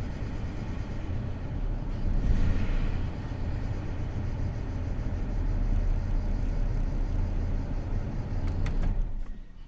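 BMW N53 straight-six idling roughly with a misfire on cylinder 6 (code P0306) that persists despite new spark plugs and coils; the engine is shaking. The sound drops away sharply near the end.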